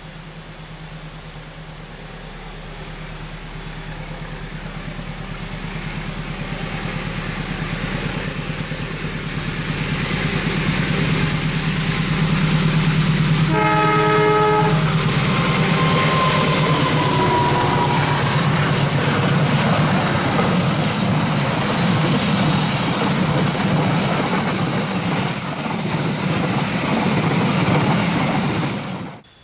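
Indonesian KAI diesel-electric locomotive hauling a passenger train, its engine growing louder as it approaches, then passing close with the wheels running over the rails. A horn blast of about a second and a half sounds near the middle, and the sound cuts off suddenly near the end.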